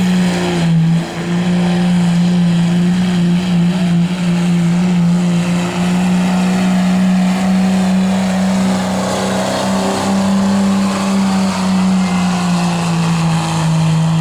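Diesel pickup truck's engine held at full throttle under heavy load as it drags the pulling sled down the track. The engine note stays steady and high for the whole run, then cuts off just after the end.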